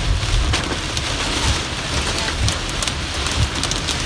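Heavy rain pelting down, a dense hiss with many sharp drop hits, over a low rumble of strong wind.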